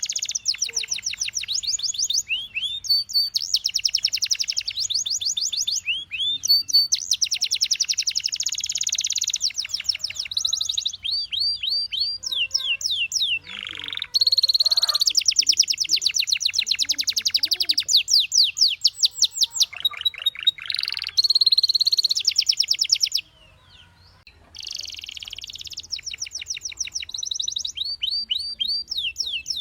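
Canary singing a long song of rapid trills and repeated sweeping notes in phrases of a few seconds, with a brief pause about three-quarters of the way through.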